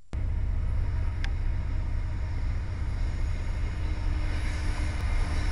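Freight train rumbling past, a steady low rumble that cuts in abruptly at the start, with a single sharp click about a second in.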